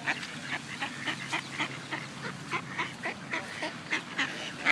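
Waterfowl calling in a run of short, rapid honks and quacks, about three or four a second.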